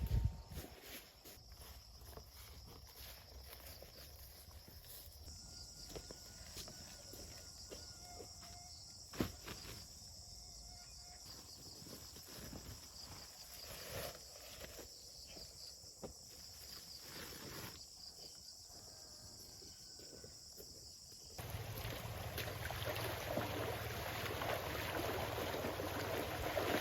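Insects drone steadily at a high pitch, with scattered light knocks and rustles. About three quarters of the way through, the sound cuts abruptly to a louder, even rushing noise.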